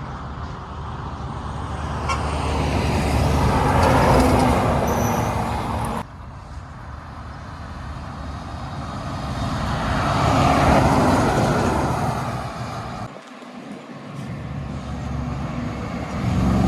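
Heavy trucks driving past on a road, the engine and tyre noise swelling as each one comes by and fading after. The sound cuts off abruptly about six seconds in and drops away briefly near the end.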